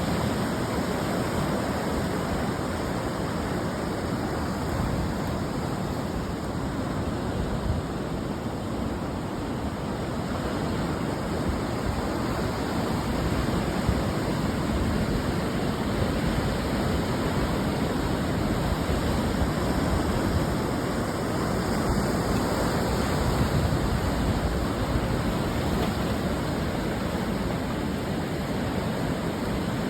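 Ocean waves breaking and washing on the shore in a continuous, even hiss of surf that swells slightly through the middle.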